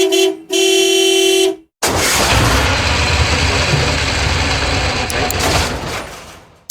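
A vehicle horn honks twice, a short toot and then a longer blast, followed by a loud engine revving that fades away.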